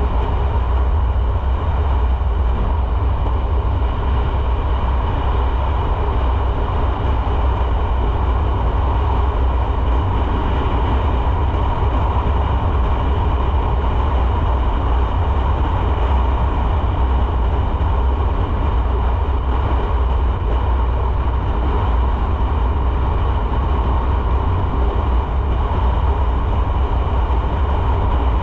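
Motorcycle underway at a steady speed, its engine running under a heavy, steady low rumble of wind on the onboard microphone.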